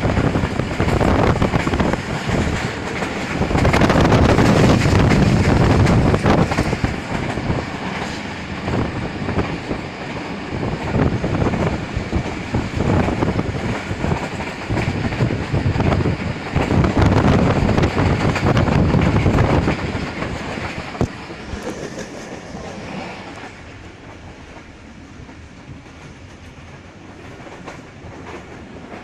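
Moving train heard from on board: the running noise of the carriage and its wheels on the track. It swells louder twice and drops to a lower, steadier level over the last several seconds.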